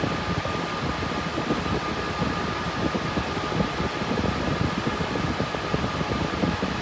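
Cooling fans of an RTX 3060 Ti GPU mining rig running steadily under load: an even whoosh of air with a faint high whine held at one pitch.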